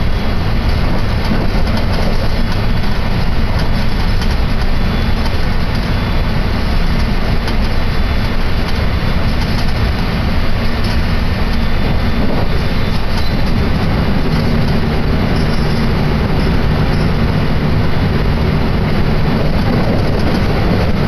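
Commuter train running at speed, heard from inside the carriage: a steady rumble of wheels and running gear on the rails. A low steady hum joins in about two-thirds of the way through.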